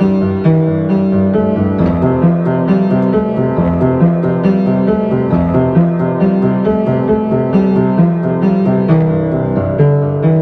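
Solo piano playing a flowing original piece: a steady run of struck notes, roughly two a second, over a low line that shifts between notes.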